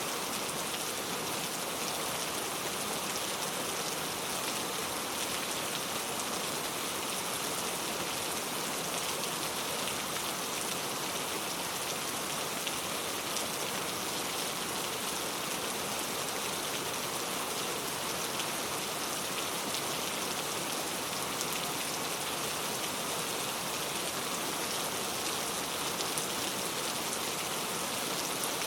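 Heavy rain falling steadily and tapping on a leaf-covered road, a dense even hiss made of countless small drop taps.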